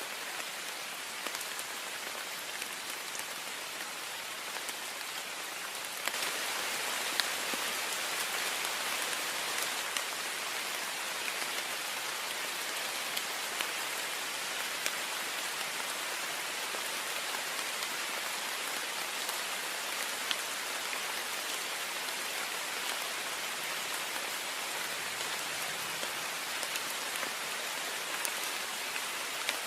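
Heavy rain beating on a window: a steady dense hiss of drops with scattered small ticks, which steps up in loudness about six seconds in.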